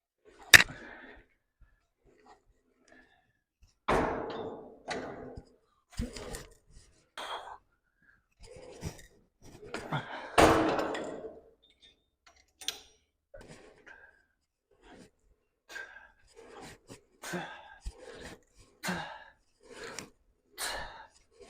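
A man breathing hard, with short forceful exhales and gasps while lifting weights, the breaths coming about once a second near the end. About half a second in, a single sharp clank.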